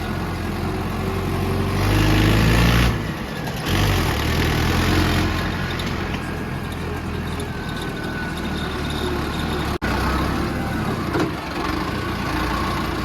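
Tractor engine running steadily with a low drone. It swells louder about two seconds in, dips a second later, then settles back to a steady run.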